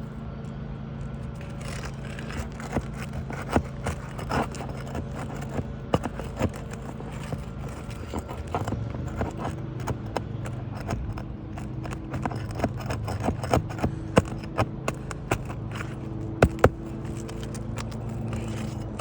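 Scraping and irregular sharp knocks of a tool prying out a stubborn 3-tab asphalt roof shingle and its nails, over a steady low hum.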